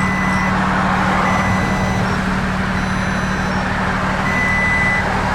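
A truck's reversing alarm sounds slow, even beeps about every second and a half over the steady drone of a truck engine running.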